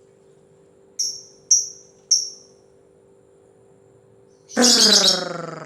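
Lovebird calling: three sharp, high, downward chirps about half a second apart, then near the end a louder, longer, harsh call that is the loudest sound. A faint steady hum lies underneath.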